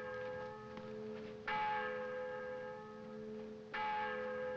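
Church bells tolling, with a fresh stroke about a second and a half in and another near the end, each ringing on and overlapping the hum of the bells before.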